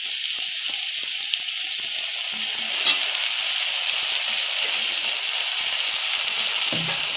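Sliced onions and green capsicum frying in hot oil in a kadai, a steady sizzle.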